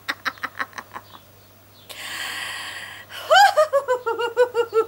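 A woman laughing in quick breathy bursts, then a loud sharp in-breath lasting about a second, then a fast run of 'ha-ha' laughter falling in pitch. This is laughter-yoga 'front crawl' breathing: a gasp in as if lifting the head from the water, and the out-breath let go as laughter.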